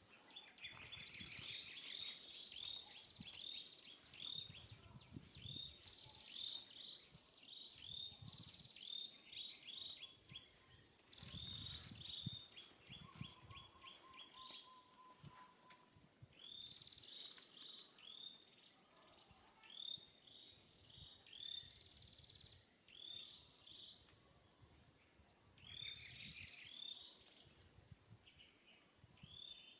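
Faint bird calls: repeated runs of short, quick downward-sweeping chirps, several a second, with a few brief pauses, over a low background rumble.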